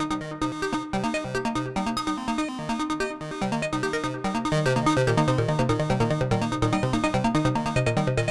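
Eurorack modular synth sequence: rapid short pitched notes from an Expert Sleepers Disting EX Macro Oscillator (a Braids clone), shaped by an envelope through a VCA or a Meng Qi DPLPG low pass gate and fed through a Make Noise Mimeophon. It gets louder about five seconds in.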